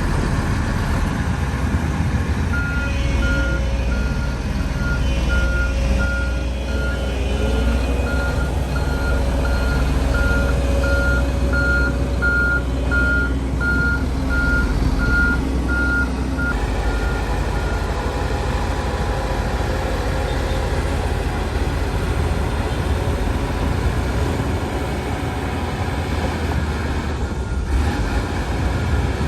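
Heavy diesel earthmoving machinery running, with a reversing alarm beeping steadily, roughly one to two beeps a second. The beeping stops a little past halfway, and the engine sound changes at about the same time.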